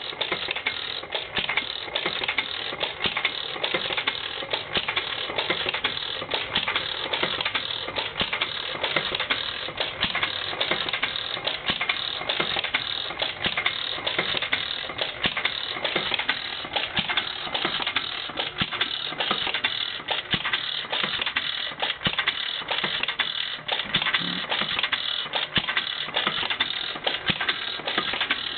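1925 Witte single-cylinder hit-and-miss flywheel engine running, with a steady, rapid mechanical clicking and clatter.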